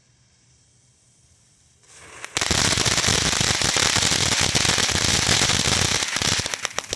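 Small 'Breathless' consumer firework fountain: a faint fizz about two seconds in, then a loud, dense crackling spray for about four seconds, thinning to scattered crackles near the end.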